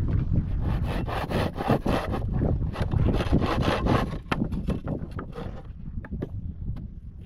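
Wood being sawn by hand: a quick, steady run of rasping strokes that thins out and gets quieter about four seconds in.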